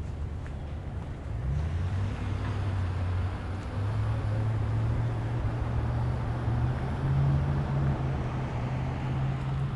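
A motor vehicle's engine running with a low, steady hum. It grows louder about a second and a half in and stays strong, rising slightly in pitch later on.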